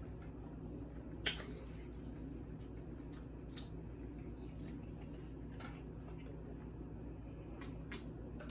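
Close-up chewing of a mouthful of pork chop sandwich with the mouth closed: soft wet clicks and smacks, with one sharper click about a second in, over a steady low hum.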